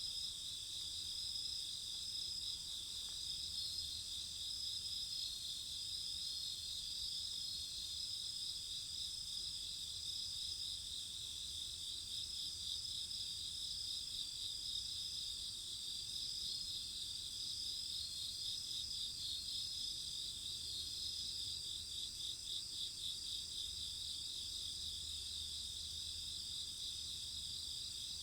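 Crickets singing in a steady chorus, several overlapping high trills going on without a break.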